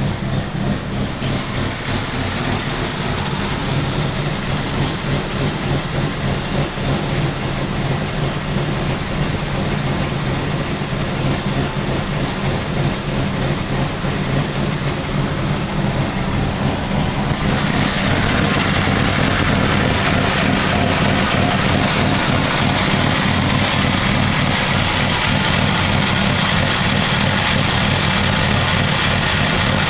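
Car engine idling steadily with a fast, even beat; a little over halfway through a louder hissing noise joins in and stays.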